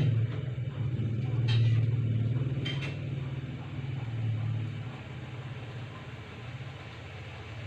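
Samsung front-loading washing machine running with a steady low hum that swells and fades and grows quieter toward the end, with a couple of faint clicks. This is the machine that will not spin and stalls at the 12-minute mark.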